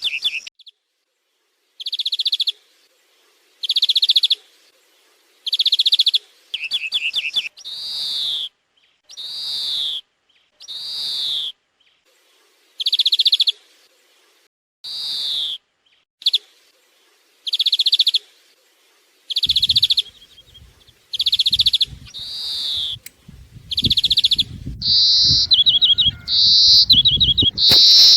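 European greenfinch calls played from an electronic bird caller as a hunting lure, repeating in short bursts about every two seconds, some notes sliding down in pitch. From about twenty seconds in, a low rumbling noise runs under the calls, and near the end the calls turn into quicker trills.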